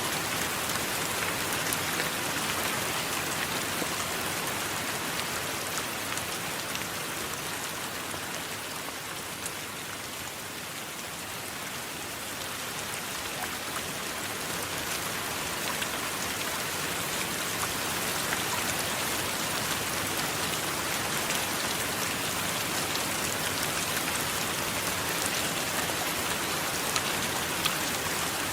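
Steady rain falling: an even hiss with a dense patter of individual drops. It eases a little about ten seconds in, then builds back.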